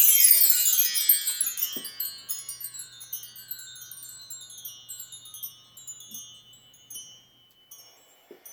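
Chimes swept in a quick run from high notes down to low, the metal rods ringing on and slowly dying away, with a few light tinkles as they settle.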